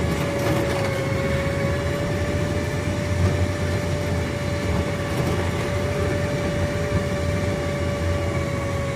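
A tourist rail car running along its elevated track: a steady rumble of wheels on rail with a constant whine over it.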